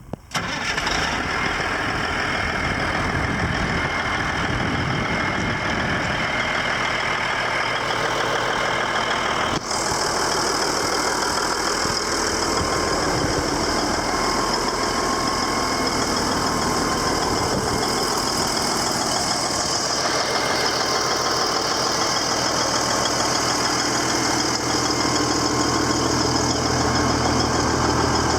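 Ford LTL 9000 truck tractor's diesel engine idling steadily; it comes in abruptly just after the start and gets slightly louder near the end.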